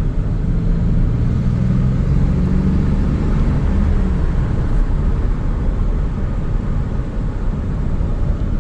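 Chevy S10's 4.3 Vortec V6, fitted with Holley Sniper throttle-body fuel injection, running as the truck drives, with a low rumble. A steady engine tone holds for the first few seconds, then sinks into the general road rumble.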